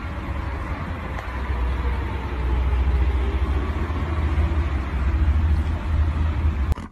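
A steady low rumble with a hiss over it, cutting off suddenly near the end.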